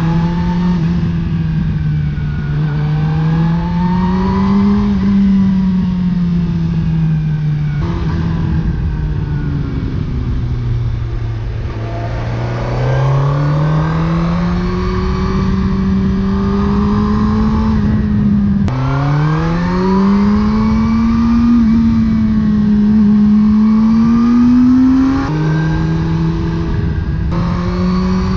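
2007 Suzuki GSX-R1000's inline-four engine through a Yoshimura R77 exhaust, under way. The revs climb and fall steadily, with sudden drops in pitch at upshifts, about a third of the way in, around two-thirds in and near the end.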